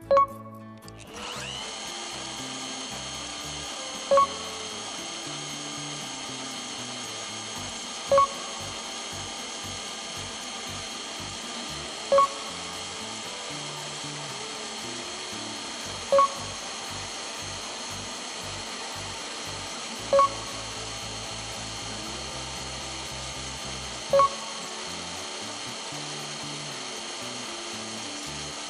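Bosch GCB-120 band saw running steadily with a high whine, its blade cutting through a 50x50 mm steel square pipe. A short, loud tone pulse repeats about every four seconds.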